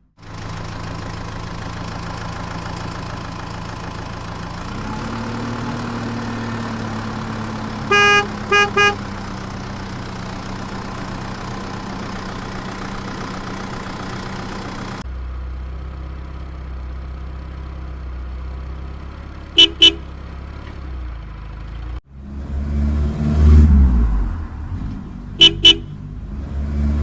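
Vehicle engine sound running steadily, with a horn tooting three times in quick succession about eight seconds in. The engine sound changes at about fifteen seconds, short double horn beeps come twice later, and from about twenty-two seconds the engine revs in loud surges.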